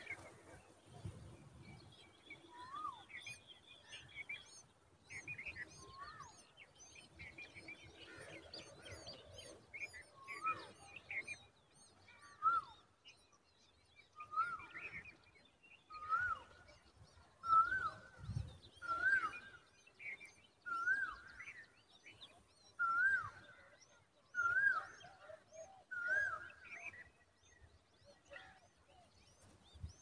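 Birds calling: a clear note that rises and falls, repeated about once a second through the middle and later part, over fainter, quicker high chirps.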